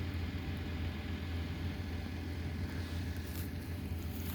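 An engine running steadily, a low even hum, with a few faint ticks about three and a half seconds in and near the end.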